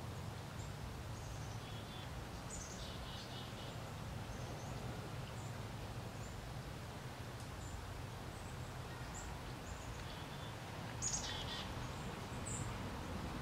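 Woodland background with a steady low rumble and scattered short, high bird chirps and twitters, the loudest cluster about eleven seconds in.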